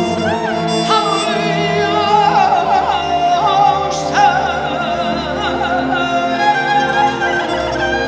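Azerbaijani mugham singing: a solo voice in a high, wavering melody with rapid trilled ornaments, over held orchestral string chords, with one sharp percussive stroke about four seconds in.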